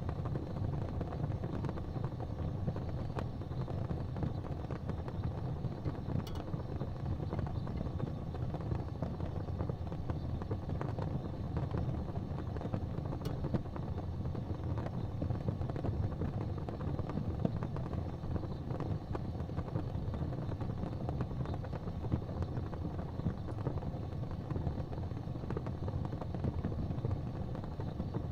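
Fire crackling in a fireplace: a steady low rumble with a scatter of small crackles, and a couple of sharper pops about six and thirteen seconds in.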